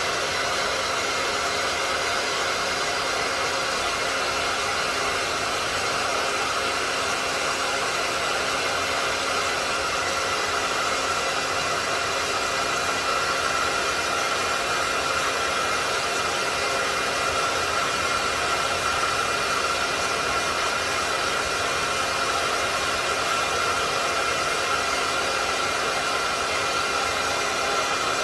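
Hair dryer running steadily on one setting: an unbroken rushing blow with a faint steady whine.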